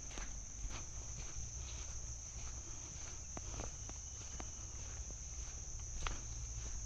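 A steady, high-pitched drone of insects in chorus, with footsteps on the forest floor coming every half second or so and a sharper snap about six seconds in.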